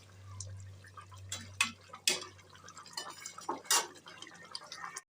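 Kitchen utensils and dishes clinking and knocking, with a few sharp clinks, over a steady low hum; the sound cuts off abruptly near the end.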